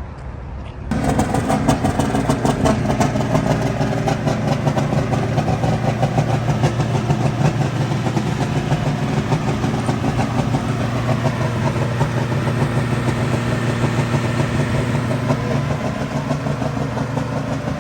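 A truck's diesel engine runs steadily at idle, with a fast, even pulsing beat. It starts up abruptly about a second in.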